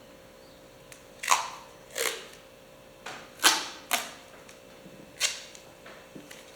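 Five short, sharp handling noises over about four seconds, each dying away quickly, with a few fainter ticks between them.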